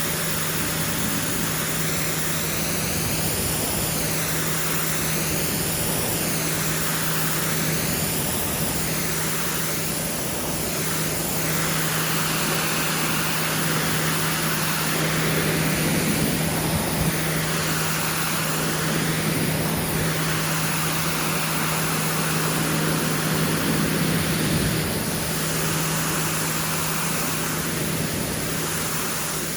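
Pressure washer running and spraying water through air-conditioner condenser coils: a steady motor hum under the hiss of the spray, which rises and falls as the spray sweeps across the coils.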